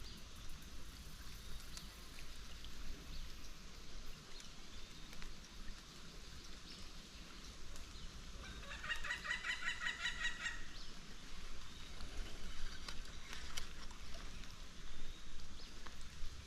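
A bird call: one rapid, pulsed, rattling call about two seconds long, starting about halfway through, over a faint steady outdoor background with scattered light clicks.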